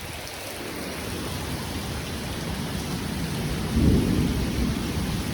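Heavy rain falling steadily, with a low rumble of thunder that swells to its loudest about four seconds in.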